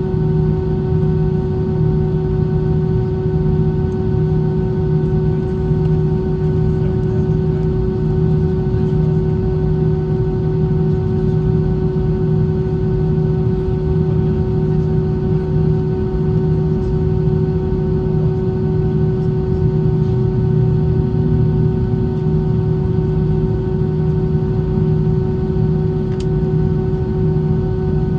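Airbus A320 cabin noise in flight: a steady low roar of engines and airflow with a constant hum of several pitches.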